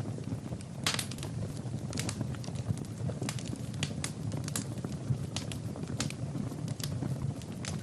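Wood fire burning in a fireplace, with irregular sharp crackles and pops, a few each second, over a steady low rumble of the flames.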